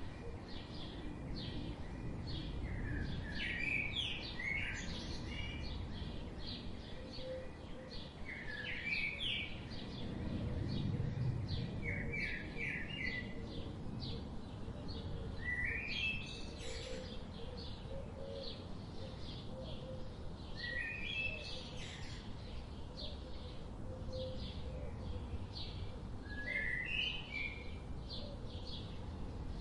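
Forest birds singing: one bird repeats a short, quick phrase every few seconds while other birds chirp rapidly in the background, over a steady low rumble of outdoor ambience.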